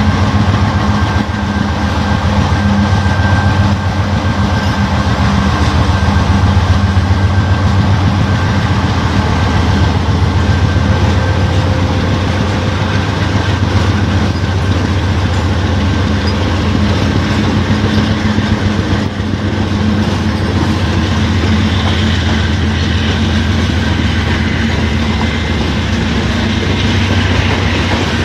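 A CSX freight train passing at low speed: the GE wide-cab diesel locomotive's engine drones steadily as it runs with smoke at the stack, then the freight cars roll by with their wheels clattering on the rails.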